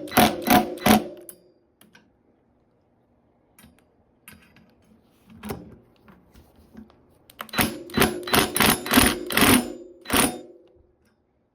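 Hand tools clicking and rattling in two quick bursts, a short one at the start and a longer one of about three seconds near the end, with a few single clicks between.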